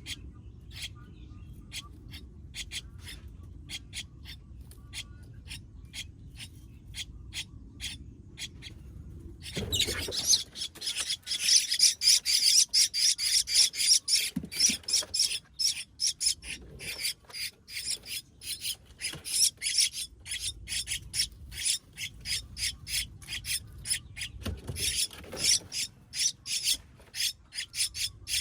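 Baby birds giving short, high, rasping chirps over and over. At first the calls come about twice a second. About a third of the way in they turn much louder and faster, several a second.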